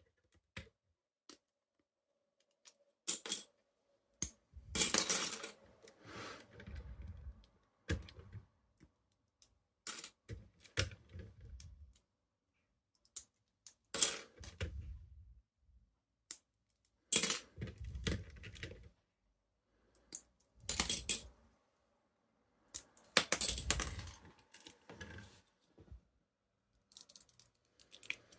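Lego pieces clicking and clattering in irregular bursts as the model is handled, with some soft thumps.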